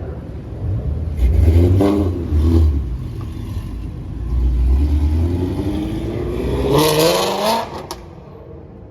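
Car engine revving: a short burst of revs about two seconds in, then a longer rev climbing steadily in pitch to a peak before it cuts off near the end.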